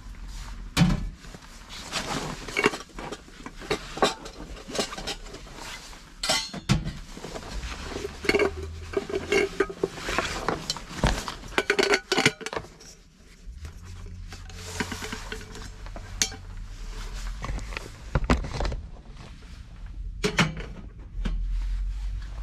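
Dishes and cutlery being handled, with many small irregular clinks and taps.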